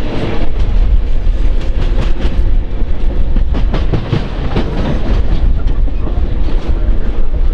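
Train running on the rails with a heavy low rumble and repeated wheel clacks over the track.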